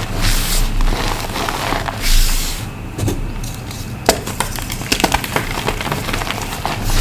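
Blocks of reformed gym chalk being crushed: dense crunching and crackling, with a sharper crack about four seconds in.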